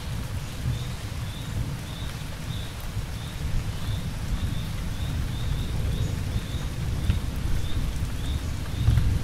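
Steady rainstorm with a low rumble of thunder that swells near the end, and a cricket chirping about twice a second.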